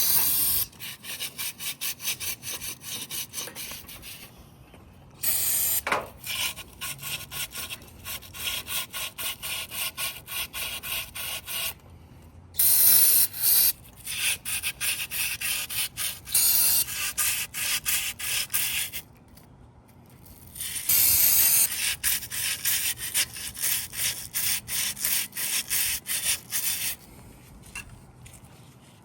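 A cleaning brush scrubbing back and forth inside a cast-iron Chrysler 383 engine block, flushing out machining debris before assembly. The rapid strokes come about three a second, in four spells with short pauses between them.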